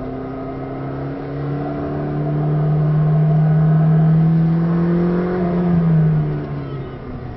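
McLaren 620R's twin-turbo V8 heard from inside the cabin, pulling under acceleration with its pitch rising slowly and getting louder, then easing off about six seconds in.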